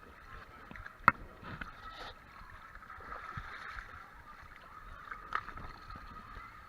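Faint, muffled background noise heard through a GoPro's waterproof housing, with a sharp knock about a second in and a softer one about five seconds in.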